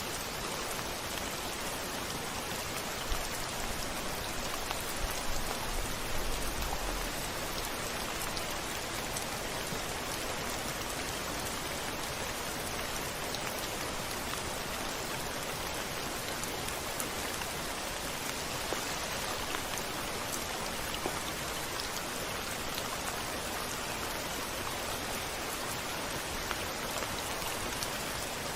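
Steady rain pattering against a window, with a low rumble of thunder from about three to seven seconds in.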